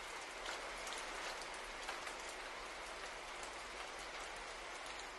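Soft, steady rainfall with many small scattered drop ticks.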